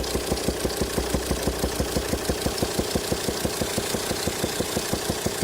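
Volvo D5 five-cylinder diesel idling with a regular, rapid popping, about seven pops a second, coming out of the open intake at the throttle body; a low hum under it fades out about halfway through. The owner traces the popping to an exhaust valve on cylinder 5 stuck shut by a sheared lifter socket, so pressure backfires through the intake valve.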